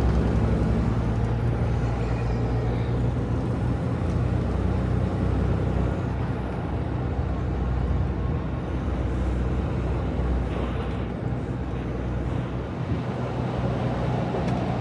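Semi-truck driving, heard from inside the cab: a steady low engine drone over road noise.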